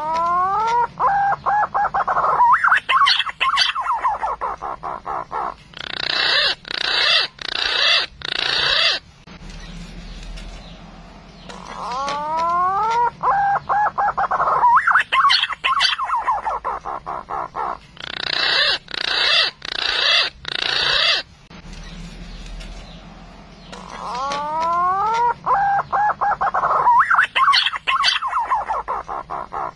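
Looped recording of a green pigeon (punai) calling, played as a hunting lure: a phrase of rising whistled notes runs into a string of shorter notes and then a harsher, noisier stretch. The whole phrase repeats about every ten seconds, three times over.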